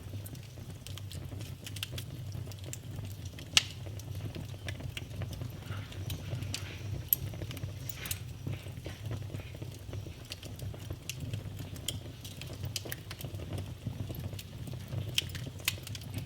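Wood fire burning in a fireplace: a steady low rumble of flames with irregular crackles and snaps, and sharper pops about three and a half seconds in and again about seven seconds in.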